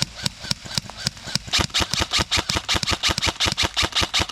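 Airsoft gun firing: a few scattered shots, then from about a second and a half in a rapid, even string of sharp shots, about seven a second.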